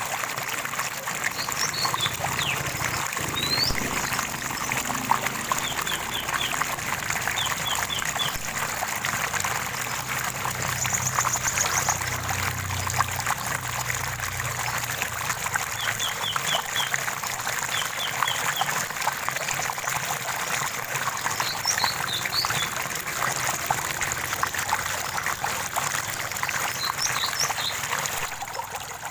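Running water trickling and splashing steadily, with songbirds chirping over it. The birds give short runs of three or four quick notes several times, a brief high trill near the middle, and scattered single chirps.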